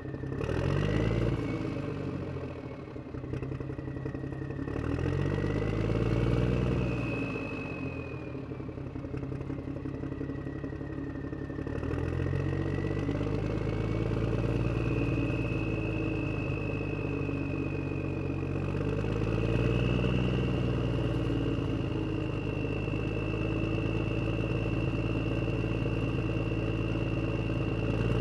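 Engine running and revving up and down several times, with a high whine alongside that rises and falls with it.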